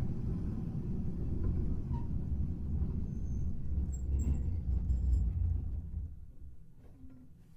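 Hankai Tramway car 351 running with a low rumble that dies away from about six seconds in as the tram slows to a halt.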